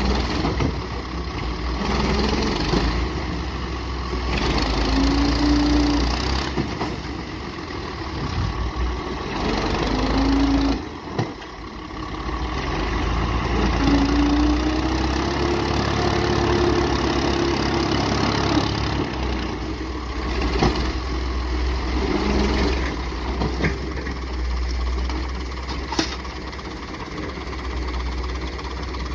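Massey Ferguson MF 240 tractor's three-cylinder diesel engine running hard, its pitch rising and falling several times as the revs go up and down.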